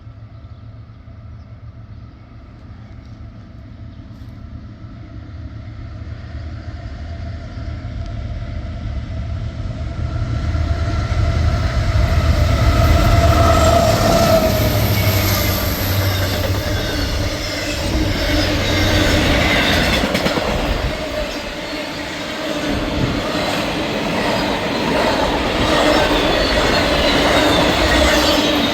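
Intermodal freight train approaching and passing: the locomotives' diesel engines grow steadily louder over the first dozen seconds, then the rumble and clatter of the cars' wheels on the rails carries on at a steady level.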